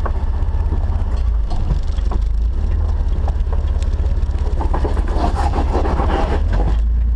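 Off-road Jeep's engine running at a low, steady rumble, with a few scattered knocks and a denser rattle of higher noise in the second half.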